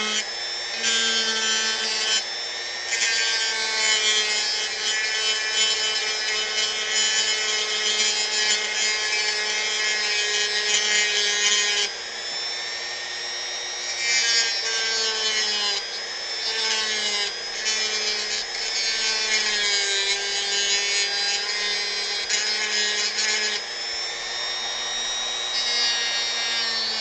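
Dremel rotary tool running at high speed, its bit grinding into wood to hollow out a recess; a steady motor whine under a rasping grind that eases and comes back as the bit bites in and lifts off.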